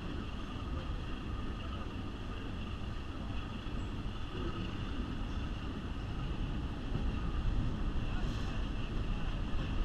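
A passenger train running, heard from its open-air car: steady rumble of the wheels on the rails mixed with wind on the microphone, a little louder over the last few seconds as the car rolls out onto a trestle.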